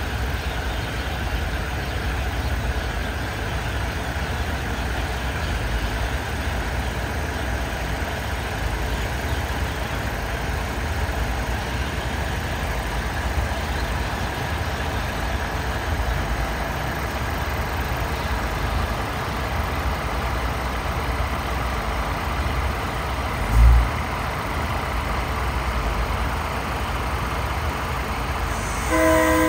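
An SRT passenger train rolling past at close range, with a steady engine and running-gear rumble as the cars move by. There is one brief low thump about three-quarters of the way through, and a short horn toot right at the end.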